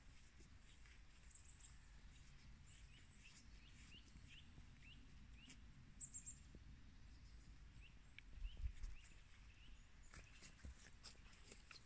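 Faint bird calls: short, scattered chirps over a low, steady background rumble, with a brief louder low swell about eight and a half seconds in.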